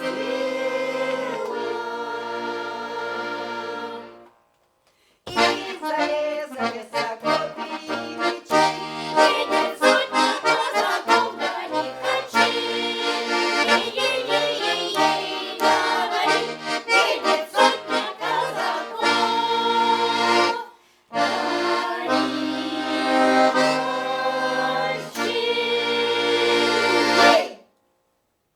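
Accordion playing an instrumental passage of a Russian folk song. A held chord stops about four seconds in; after a short gap comes a brisk run of notes over chords and bass, which breaks off briefly about two-thirds through, resumes and ends on a held chord.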